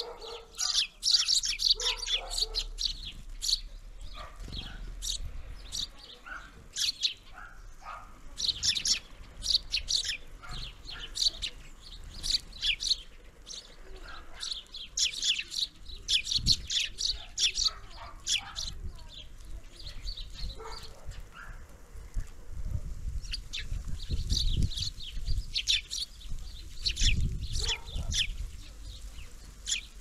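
Feeder birds chirping and calling in quick short notes, many overlapping in bursts. A few low rumbles come in near the middle and more strongly toward the end.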